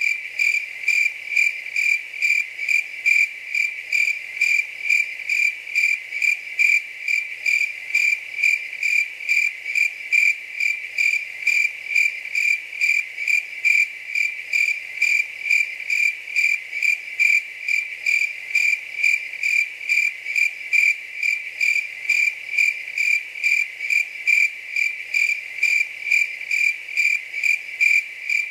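A cricket chirping steadily: a high, pure chirp repeated about twice a second in an even rhythm.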